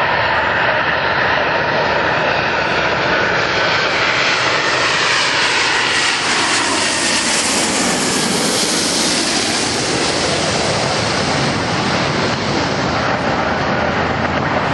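Boeing 777-200ER jet airliner on landing approach passing overhead, its twin Rolls-Royce Trent engines making a steady jet noise. The hiss grows brightest about eight seconds in as it passes closest, then dulls, with tones sliding down in pitch as it moves away.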